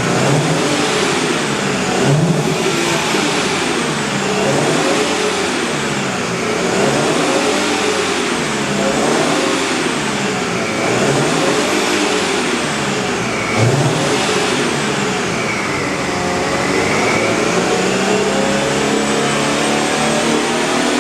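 Alfa Romeo 147 engine through its stock exhaust, revved over and over, the engine note rising and falling about every two seconds, then one slower, longer climb near the end. A couple of short low thumps come a couple of seconds in and again past the middle.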